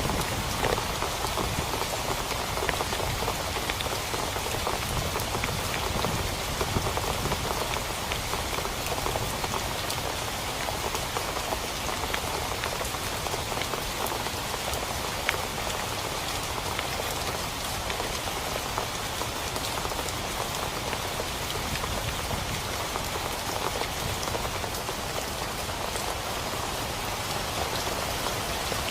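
Steady rain falling on a tent, with scattered individual drops ticking through the even hiss.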